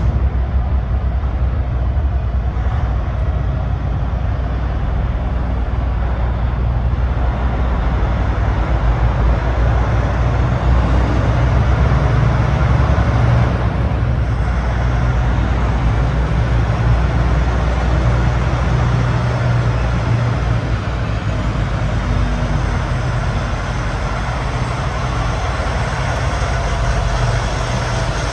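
Semi-truck running steadily on the road: a low diesel engine drone with tyre and road noise.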